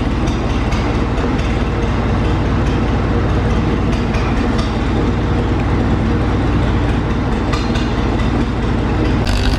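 International Utility 350 tractor engine running steadily, just fired up and warming up.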